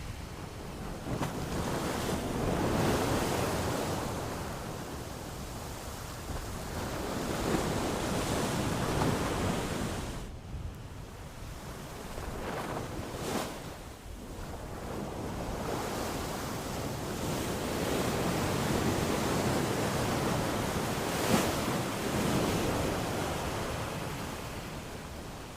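Ocean surf: waves breaking and washing on a shore, the rush rising and falling in slow surges every few seconds, with a few short, sharper splashes.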